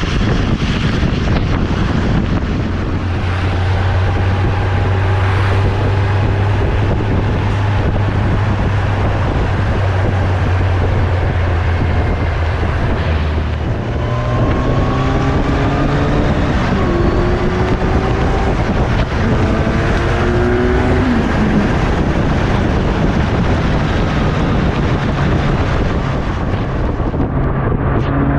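Kawasaki Z1000SX inline-four motorcycle engine running on the move, under heavy wind noise. About halfway through, the engine note steps up and then climbs in several short rising runs as the bike accelerates.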